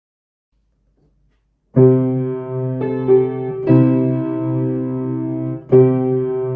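Nearly two seconds of silence, then a solo piano begins a Christmas carol, striking full chords that change about once a second.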